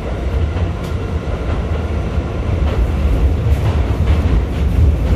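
NYC Subway R68-series car running along the tunnel track, heard from inside the car: a steady, loud low rumble with a few sharp clicks from the wheels and rails.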